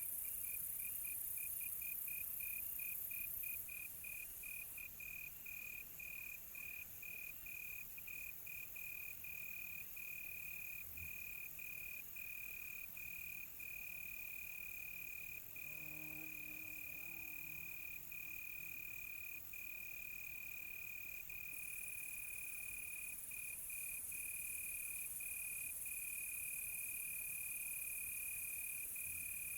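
Crickets chirping at night. One loud, high cricket call starts as quick rapid chirps and lengthens into long trills broken by short gaps, over a steady high hiss of many more insects. A faint low call sounds briefly about halfway through.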